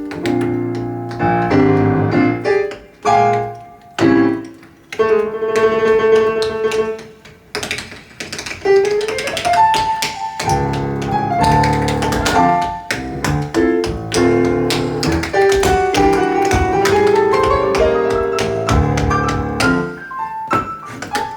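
Jazz piano playing chords and melody with tap shoes clicking along over it; about nine seconds in, one note slides upward.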